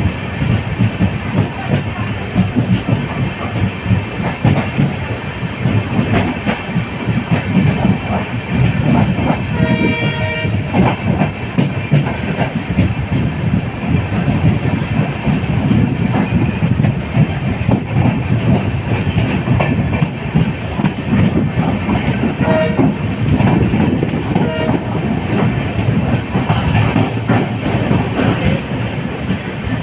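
Running express passenger train: continuous rumble and clickety-clack of the coach wheels over the rail joints. A train horn sounds once for about a second, around ten seconds in.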